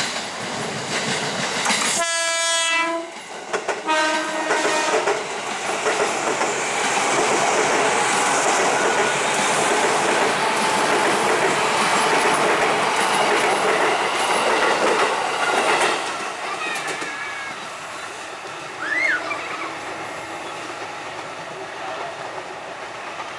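KRL Commuter Line electric train sounding its horn in two blasts, about two and four seconds in, then running past loudly on the rails for about ten seconds before the sound drops away.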